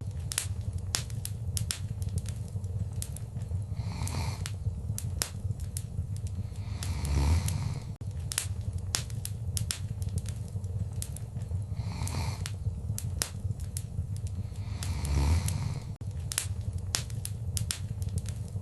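Wood fire crackling in a fireplace: frequent sharp pops and snaps over a steady low rumble of the flames, with a soft swell of the fire a few times.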